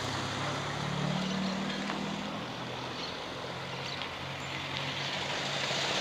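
A motor vehicle's engine running steadily, with a low hum over general traffic noise.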